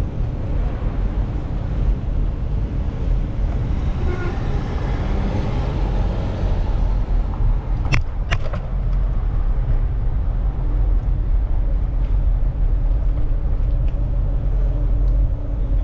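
Street traffic and a steady low rumble heard from a moving bicycle, with two sharp clicks in quick succession about eight seconds in.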